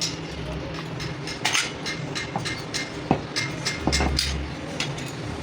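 Irregular metallic clinks and knocks of tools working on metal parts, with sharper knocks about a second and a half in and about three seconds in, over a steady low hum.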